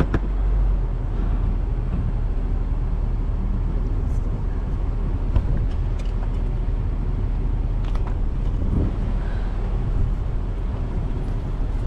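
Nissan Pathfinder heard from inside the cabin while driving on a forest dirt track: a steady low engine and road rumble, with a few short knocks and rattles scattered through it.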